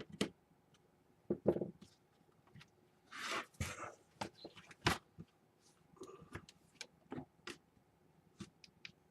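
Scattered clicks and knocks of a small laptop being handled, with a short rustle about three seconds in.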